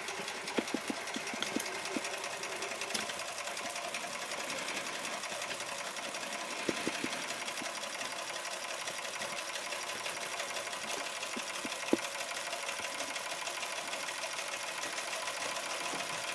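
Bing-Wolf electrically heated twin-cylinder toy steam engine running fast: a quick, even beat of exhaust puffs and clatter over a steady hiss, with a few sharper clicks.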